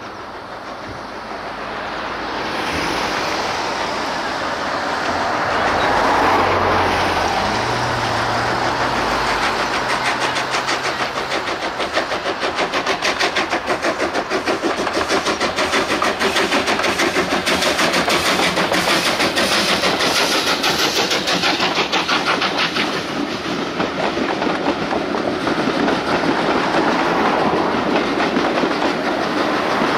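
Train running on the rails, growing louder over the first few seconds, then a fast, even clickety-clack of wheels over rail joints.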